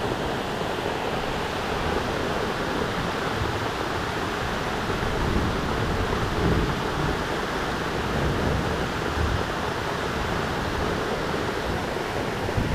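Waterfall rushing: a steady, even roar of falling water that does not change through the stretch.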